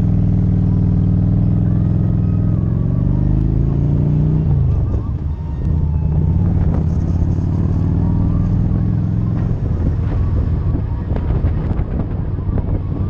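Motorcycle engine heard from the rider's seat, rising in pitch as the bike accelerates, then dropping briefly in pitch and level about four to five seconds in before running steadily at cruising speed.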